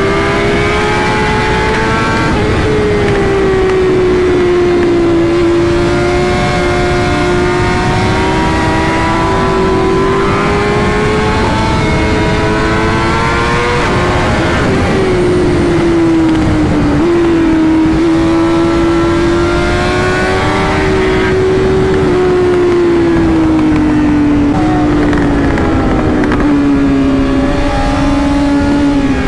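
BMW S1000RR's inline-four engine running at high revs while riding, its pitch drifting up and down with the throttle, over steady wind and road noise.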